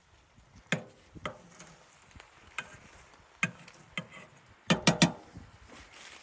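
A series of irregular sharp knocks, like hard objects or wood being handled, with three in quick succession near the end that are the loudest.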